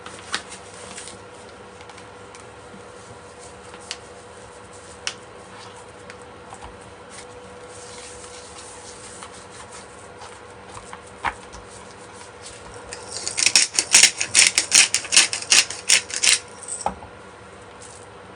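Pepper mill grinding: about three seconds of rapid dry rasping crackle, starting about 13 seconds in, after a few light knocks of kitchen handling.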